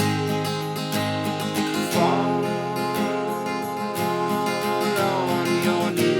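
Seagull S6 Mahogany steel-string acoustic guitar played with strummed chords in a steady rhythm.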